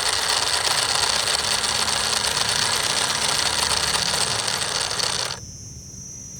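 Miniature DIY tractor engine model running with a dense, steady mechanical rattle of small gears and parts. It cuts off suddenly about five seconds in, leaving only a thin, steady high-pitched buzz.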